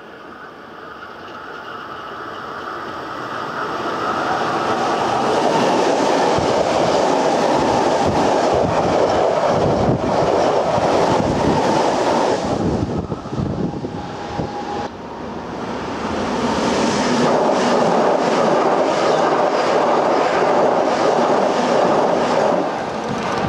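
Hankyu electric train passing at high speed close to the track. A rumble builds as it approaches, then the loud rush and clatter of wheels on the rails as the cars go by. The sound dips briefly about thirteen seconds in, builds again, and falls away sharply near the end.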